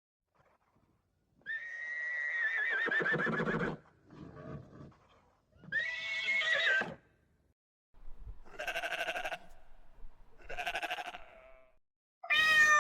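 A series of separate farm-animal calls with short quiet gaps between them, the longest about two seconds with a wavering pitch.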